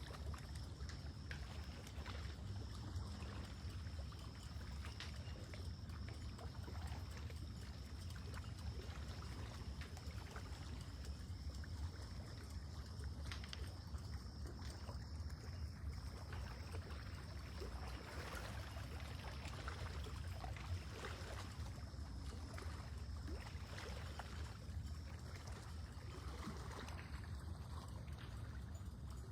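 Small waves lapping and trickling gently at a lake's edge, with many small irregular splashes over a steady low rumble.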